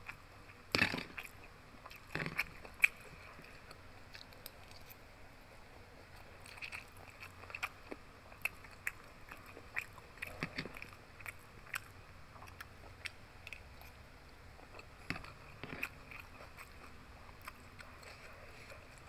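Close-miked chewing and mouth sounds of eating fried pork belly with rice, with scattered small wet clicks. About a second in and again around two to three seconds in, a few louder clacks and scrapes of a metal fork and spoon against the plastic food container.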